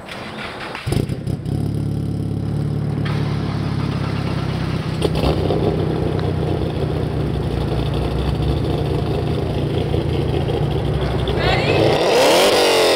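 A tuned car engine starts about a second in and settles into a steady idle. Near the end it is revved hard, its pitch rising and falling with a few throttle blips.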